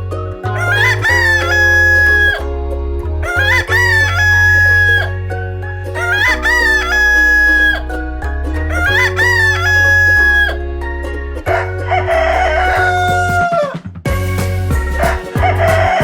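Rooster crowing cock-a-doodle-doo, the same crow repeated four times about every three seconds, then two rougher-sounding crows near the end, over background music with a steady bass line.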